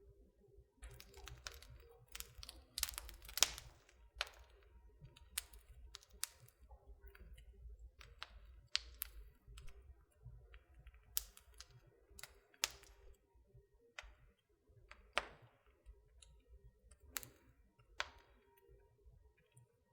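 Wood fire in a fireplace crackling, with irregular sharp pops and snaps over a low, soft rumble of the flames, a burst of close pops about three seconds in.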